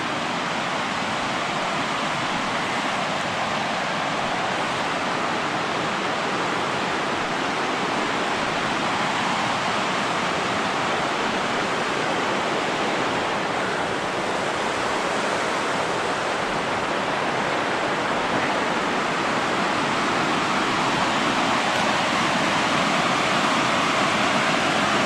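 Rushing water of Buttermilk Falls, a cascade on the Raquette River: a steady, even rush of falling water that grows gradually louder.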